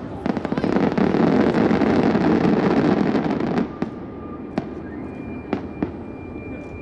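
Fireworks going off in a dense barrage of bangs and crackling that stops abruptly about three and a half seconds in, followed by a few scattered single pops.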